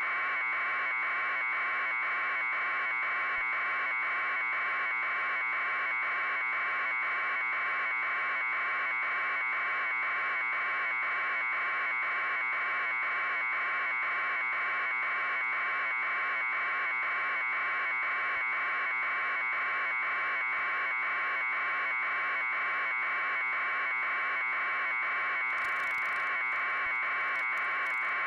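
Loud, steady buzzing drone from the helicopter, pulsing at an even fast beat, with a brief crackle of static near the end.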